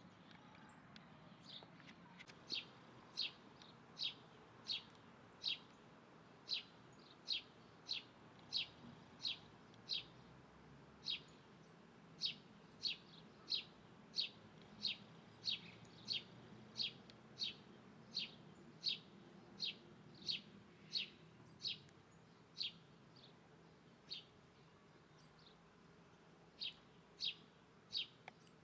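A bird repeating one short, high, sharp call note over and over, about one to two notes a second, falling silent for a few seconds near the end before calling again.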